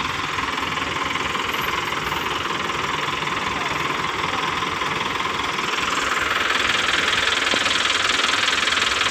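Diesel engine running steadily with a knocking clatter, getting louder about six seconds in.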